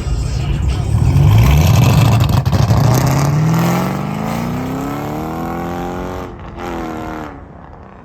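A car engine revving up under hard acceleration, its pitch climbing steadily for about four seconds before cutting off, with a short second burst of engine sound just after.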